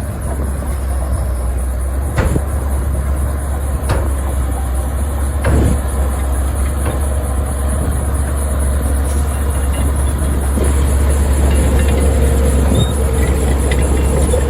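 Heavy diesel earthmoving machinery running with a deep, steady rumble. Three sharp metallic clanks come in the first six seconds.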